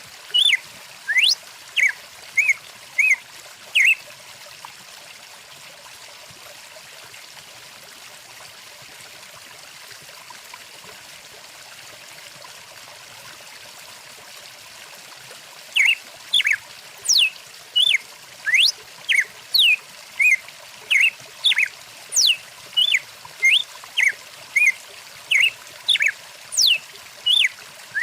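A stream trickling steadily, with a songbird calling over it in short repeated notes and quick falling slides. The bird calls for the first few seconds, falls silent for about twelve seconds, then calls again one to two times a second until the end.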